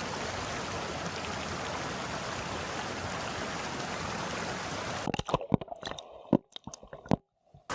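Small creek running with a steady rush of water. About five seconds in, the water gives way to a string of scattered sharp clicks and knocks with quiet between them, dropping out briefly just before the end.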